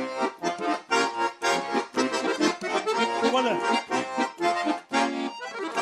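Russian garmon (button accordion) playing a lively folk dance tune in quick, pulsing chords with a bass accompaniment.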